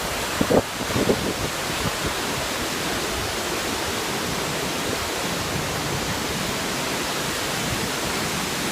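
A waterfall's rushing water, a steady even noise, with a couple of short thumps about half a second and a second in.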